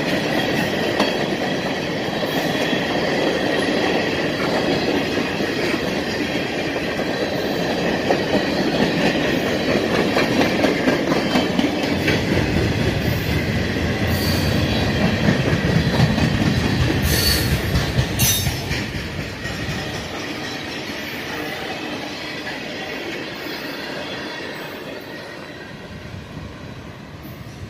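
Freight train cars rolling past: steady rumble and clatter of wheels over the rails with a thin, steady high squeal. It is loudest through the middle, drops off sharply about two-thirds of the way in as the last cars go by, then fades as the train moves away.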